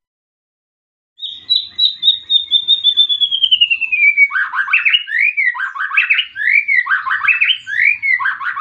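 A songbird singing: about a second in, a fast run of notes that slides steadily down in pitch for about three seconds, then a string of loud swooping notes, each dipping and rising again, repeated several times.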